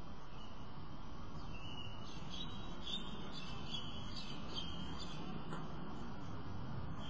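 A bird chirping in a run of short, high calls from about a second and a half in until about five and a half seconds in, over steady background noise.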